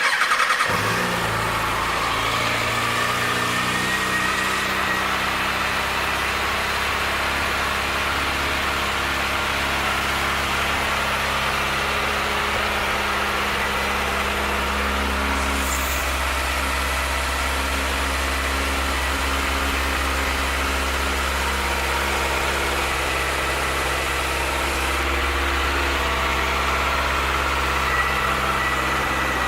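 Kawasaki ZX-6R's 599 cc inline-four sport-bike engine starting up at the very beginning and settling into a steady idle.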